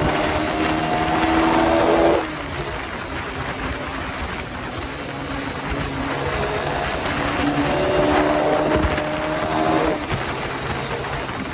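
Suzuki Satria FU 150's single-cylinder 150 cc four-stroke engine through its exhaust, pulling slowly up through the revs twice. Each pull cuts off sharply as the revs fall away, about two seconds in and again near the end.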